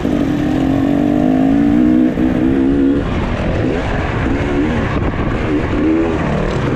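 Off-road motorcycle engines on a track: one held at high revs for about three seconds, sagging slightly in pitch, then revving up and down in short bursts.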